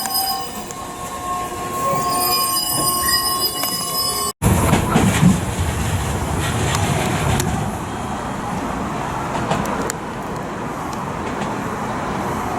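Electric train at a station, giving several steady high squealing tones for the first few seconds. After an abrupt cut, a loud rumbling run of train noise follows, with scattered clicks.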